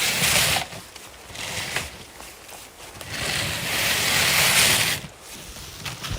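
Wind gusting, two swells of rushing noise: a short one at the start, then a longer, louder gust that builds about three seconds in and drops away about two seconds later.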